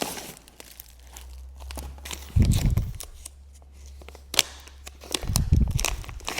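Packaging being torn open and crinkled by hand, with dense crackling, and two dull thumps from the package being handled.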